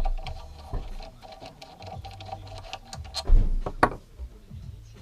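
Tool work unscrewing the brake caliper mounting bolts on a Yamaha TDM 850: a steady whirring tone with a run of light clicks for about three seconds, then two heavy knocks.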